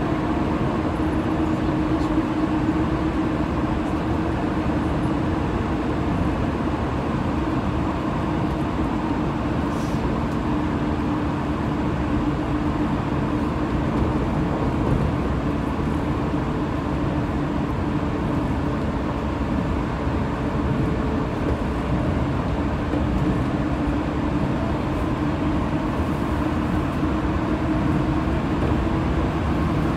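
Running sound of a 185 series electric train heard from inside the passenger car at steady speed: a continuous rumble of wheels on rail and traction equipment, with a low steady hum.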